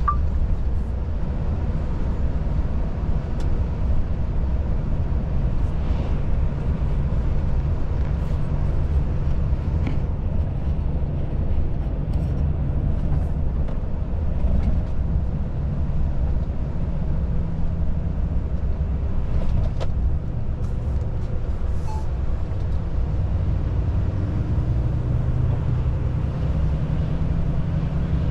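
Volvo FH truck's diesel engine running steadily as the truck drives along, heard from inside the cab with road and tyre noise; the engine note shifts in pitch in the last few seconds.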